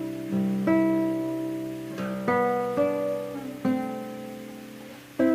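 Guitar improvisation: chords and notes are plucked and left to ring out and fade, a new one struck about every second, unhurried and free in rhythm.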